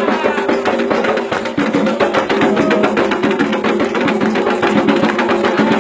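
Candomblé Ketu percussion music: atabaque hand drums playing a fast, dense rhythm with a sharp, clicking struck-percussion layer on top.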